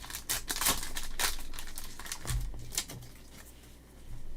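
Crinkling of a trading-card pack wrapper being handled and torn open, a run of quick crackles through the first three seconds, then quieter.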